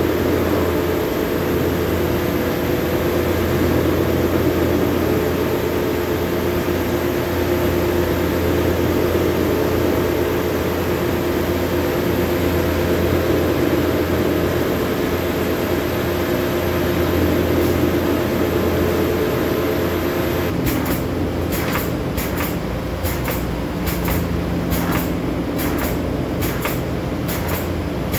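A large machine or engine running steadily with a high whine above its hum. About 20 seconds in the whine stops, the running note changes, and irregular sharp clicks or knocks begin.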